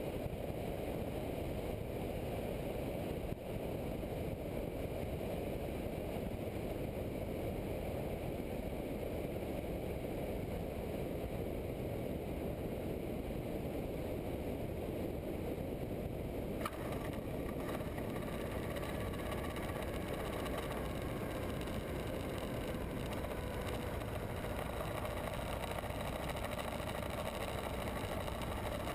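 Steady rush of wind and engine noise at a Cessna 172's left main-wheel strut. About two-thirds of the way through there is one sharp knock, most likely the main wheel touching down. After it, a whine falls slowly in pitch as the wheel rolls and the aircraft slows on the runway.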